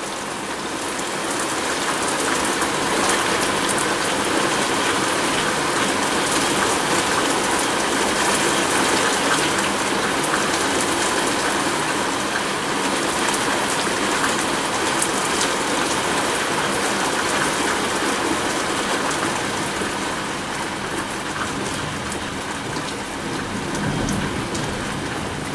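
Heavy rain pouring down steadily, with drops striking the window glass; the downpour eases slightly in the last few seconds.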